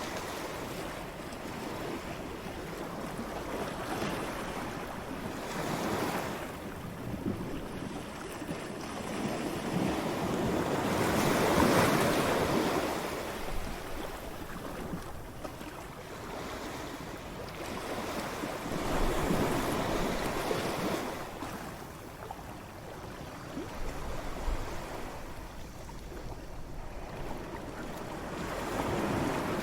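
Ocean waves breaking and washing up on a beach, swelling and falling back in turn, the strongest break about twelve seconds in. Some wind noise on the microphone.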